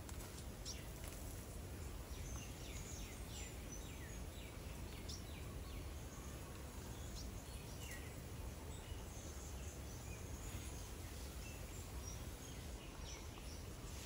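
Birds calling with many short, high chirps and quick down-slurred notes, scattered irregularly, over a steady low background rumble.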